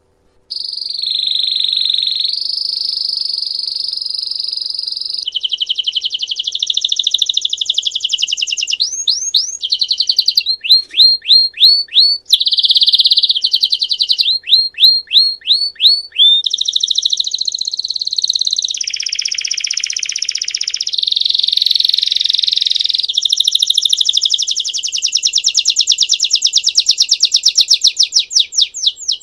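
Belgian-type domestic canary singing its 'campainha' (bell) song, starting about half a second in. The song is a continuous run of fast rolling trills and series of quick sweeping chirps, switching to a new phrase every few seconds.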